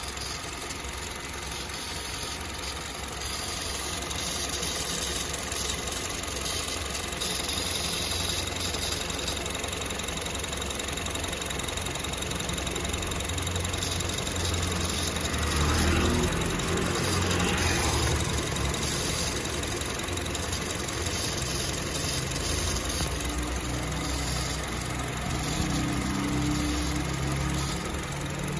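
Honda Civic (9.5th generation) engine running in the engine bay, with the abnormal noise the owner is recording. The engine speed rises briefly about halfway through.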